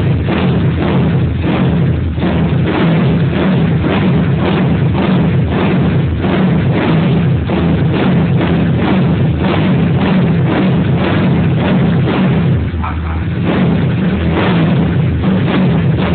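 Honda CG motorcycle's single-cylinder four-stroke engine, bored out to 263 cc, revved hard and held at high revs with a loud, rapidly pulsing exhaust note. The revs drop briefly about three-quarters of the way through, then come back up.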